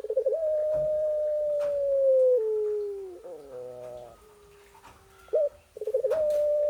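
A female animal's long, drawn-out mating call to a male, given twice: each call opens with a brief quaver, holds one steady pitch for a couple of seconds and sinks at the end. A shorter call rising then falling in pitch comes between them.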